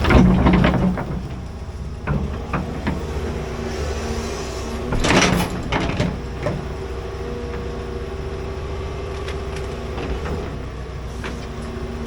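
Large excavator's diesel engine running steadily under load, with a loud scraping, clanking burst at the start and another about five seconds in, plus a few lighter knocks in between.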